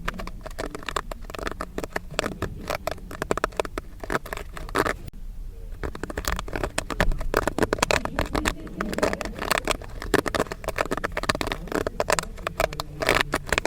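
Popcorn kernels popping: many sharp pops in a dense, irregular crackle, easing briefly about five seconds in before resuming just as thickly.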